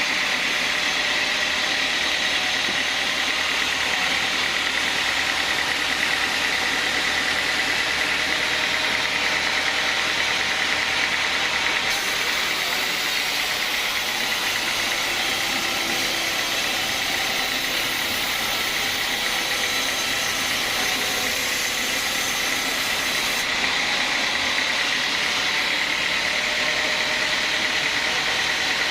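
Sawmill band saw running steadily with a constant mechanical whine, and a brighter hiss that joins for about eleven seconds in the middle.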